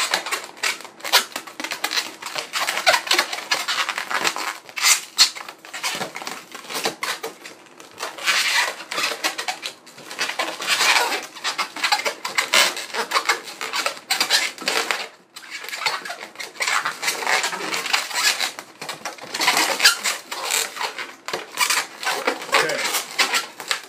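Inflated latex modelling balloons being twisted and rubbed against each other, giving dense squeaks and crackles in irregular clusters.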